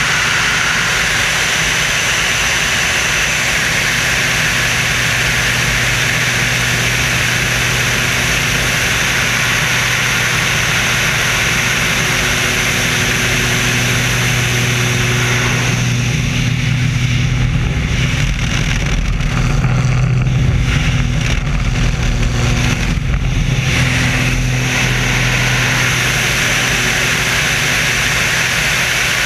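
Engines and rushing air of the Screamin' Sasquatch, a jet-assisted Waco biplane, heard from aboard in flight: a loud, steady drone with a hiss over it. About halfway through, the hiss drops away and the low drone swells for several seconds before the hiss returns.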